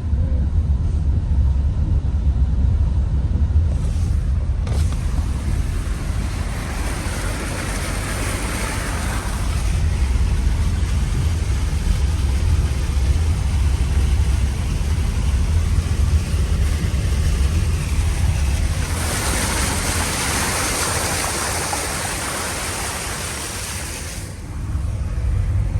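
Steady low rumble of a vehicle's engine and tyres heard from inside the cabin, driving on flooded roads. A rushing hiss of water spray swells twice, about seven seconds in and again from about nineteen seconds, and the second cuts off shortly before the end.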